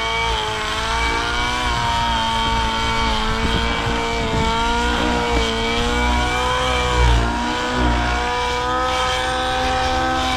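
O.S. 1.05 HZ-R two-stroke glow engine of a nitro RC helicopter running at low head speed, its pitch wavering and shifting a few times. The engine is running a little rich, billowing smoke before the needle is leaned.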